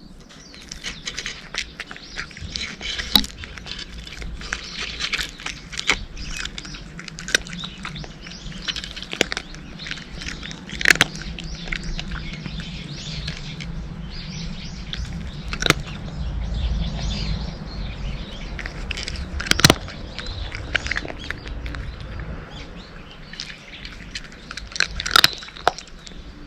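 Cats crunching dry kibble: irregular sharp crunches, a few much louder than the rest.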